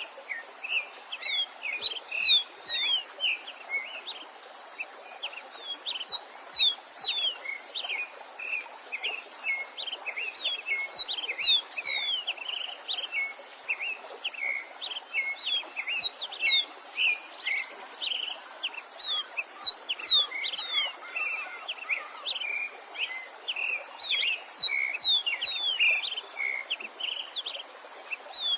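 Songbird singing a phrase of quick down-slurred whistles and short chirps, repeated about every four to five seconds, over the steady hiss of a stream.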